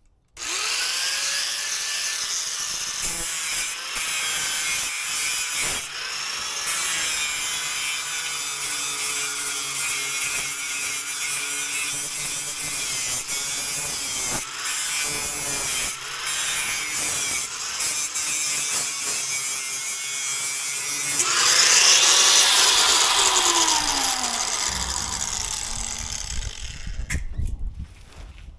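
Electric grinder sharpening steel mower blades, the motor pitch dipping and recovering as it is pressed on the blade. It starts abruptly, is loudest a little after twenty seconds in, then winds down with a falling pitch near the end.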